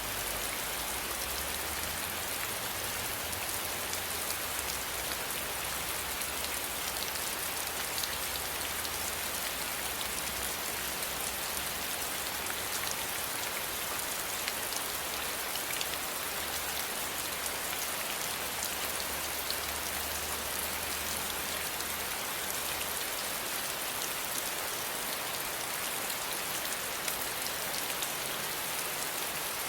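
Steady rain falling, an even hiss with many small drop ticks. A faint low rumble underneath fades out about three-quarters of the way through.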